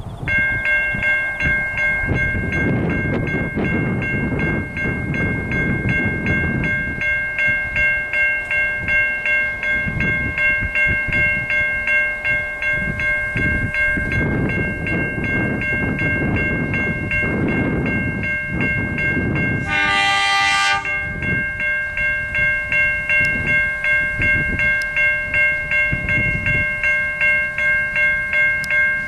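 Level-crossing bells ringing in a steady pulsing pattern while a train runs past with a low, rising and falling rumble. About twenty seconds in, the train gives a single warning blast of about a second.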